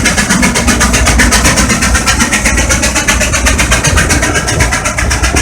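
Case steam traction engine working under load pulling a gang plow, its exhaust chuffing in a rapid, even beat.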